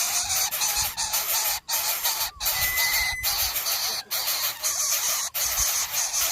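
Greater coucal chicks at the nest making short clucking begging calls over a dense, steady hiss, with a brief high steady tone about halfway through. The sound drops out briefly several times.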